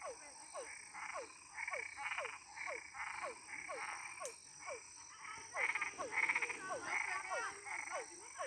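Frogs calling in a night chorus: one croak repeating in a steady rhythm a little under twice a second, over a steady high-pitched drone, with other warbling calls joining in during the second half.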